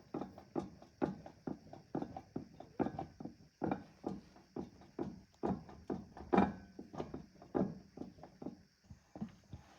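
An uneven run of short knocks or clunks, about two to three a second, with a faint steady hiss behind them.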